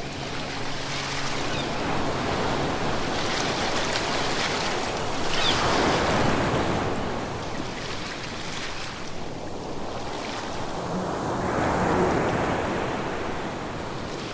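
Ocean waves washing in, a steady rush that swells and breaks twice, about six seconds apart. A faint low hum fades out in the first second and a half.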